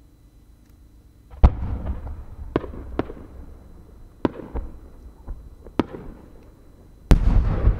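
A 10-inch (No. 10) chrysanthemum shell with a rising tail being fired. A sharp bang about a second and a half in, then about five sharp pops spread over the next few seconds. Near the end comes a much louder, deeper boom that rumbles on.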